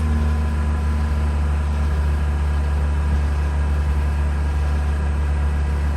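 Mazda RX-8's two-rotor Renesis rotary engine running steadily at a fast idle, held up around 2,000 RPM because the freshly deflooded engine will not yet idle on its own.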